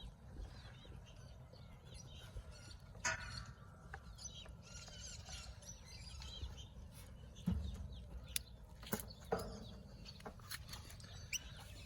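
A dog eating raw food: faint wet chewing and licking, broken by scattered short clicks and knocks, the loudest about three seconds in and again between seven and a half and nine and a half seconds.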